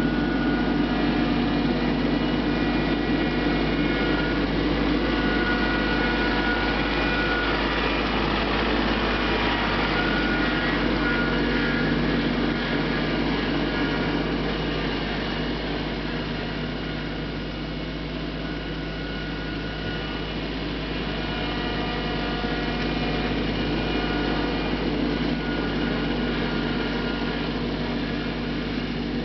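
Mahindra Max 24 compact tractor's diesel engine running steadily, easing off slightly for a few seconds past the middle and then picking back up.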